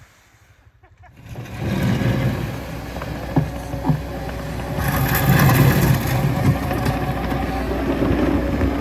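Skid steer running and working through packed snow and ice, its engine noise mixed with crunching and scraping. It starts about a second and a half in, with two sharp knocks a little before the middle and the loudest crunching just past the middle.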